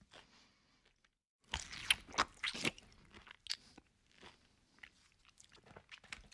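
Close-up crunching and chewing of crispy fried food, with a loud run of crunches about one and a half seconds in, then scattered smaller crackles.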